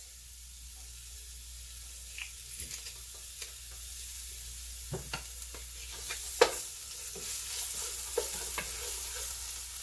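Garlic sizzling in hot oil in a pot: a steady hiss with scattered pops and a few sharp clicks, the loudest about six and a half seconds in.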